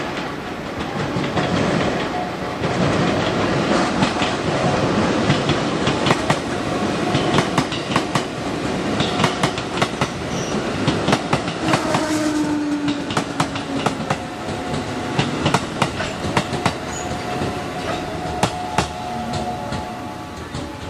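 Train passing over rail joints: a steady rumble with a run of sharp clacks as the wheels cross the joints, and a brief held tone about twelve seconds in.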